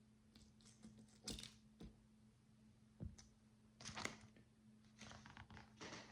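Micro building bricks, tiny plastic blocks, being handled and pressed together: soft, scattered clicks and small rattles in about half a dozen brief clusters, over a faint steady low hum.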